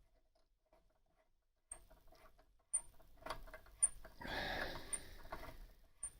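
A thread tap being turned through a stud hole in a metal casting: it cuts with small scraping clicks and a short high squeak about once a second. Fragments of the old bolt are jamming the cut, making the tapping hard going.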